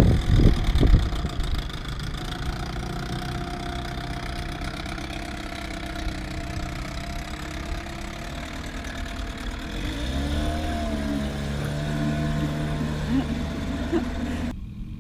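Small 4.5 horsepower Johnson outboard motor running on a tender as it heads off, a steady drone. There are a few loud knocks in the first second, and about ten seconds in the engine note wavers and shifts.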